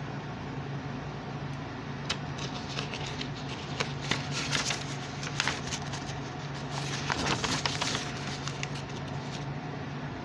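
Scattered light clicks and rustling handling noises, thickest in the middle, over a steady low room hum.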